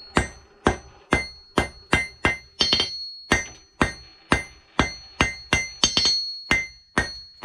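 Forging hammer striking a hot steel bar on an anvil in a steady run of blows, about two to three a second, each ringing out. The blows are knocking the bar's corners down to an octagon on the way to round.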